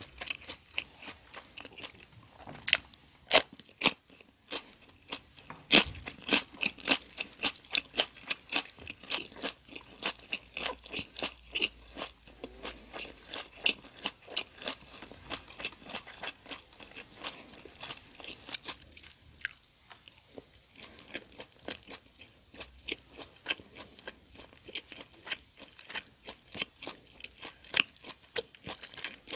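Close-miked chewing of a mouthful of jokbal, braised pig's trotter with its gelatinous, chewy skin: a steady run of sticky, wet mouth clicks, about three a second, with a few sharper, louder bites about three seconds in.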